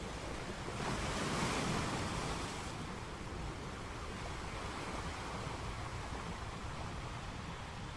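Sea surf: a wave breaks and rushes in about a second in, swelling louder for a couple of seconds, then a steady wash of water.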